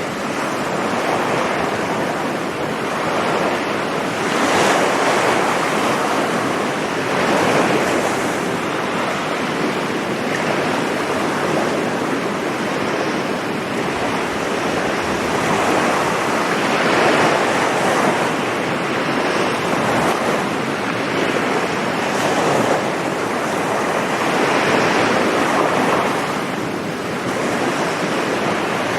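Sea surf on a beach: waves breaking continuously, the wash swelling and easing every few seconds.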